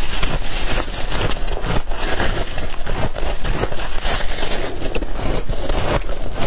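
White ice being chewed close to the microphone: a dense, unbroken run of crunches and crackles with many sharp cracks.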